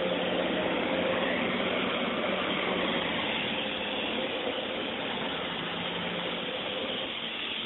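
Steady engine hum and road noise of a 2003 Chevrolet Impala driving slowly, heard from inside the car; the low hum eases off a little near the end.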